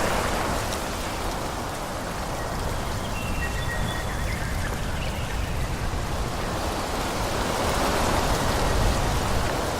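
Wind rushing through forest trees, swelling in gusts near the start and again near the end, with a low rumble underneath. A few brief high whistled notes come about three to four seconds in.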